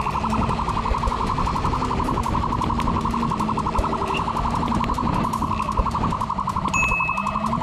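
Police siren sounding a steady, rapid pulsing tone, with a vehicle engine running underneath.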